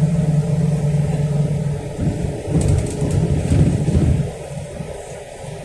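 Diesel city bus heard from inside the cabin: a steady engine drone, then about two seconds of louder uneven rumbling with a few light rattles, after which the engine noise falls noticeably quieter about four seconds in.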